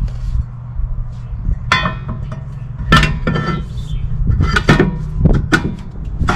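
Metal brake parts clanking and clinking as a new rear brake rotor is seated on the hub and the caliper mounting bracket is handled, with about five sharp metallic knocks over a steady low hum.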